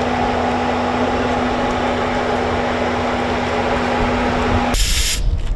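A steady mechanical hum with one constant tone, which changes abruptly to a loud hiss and deep rumble near the end.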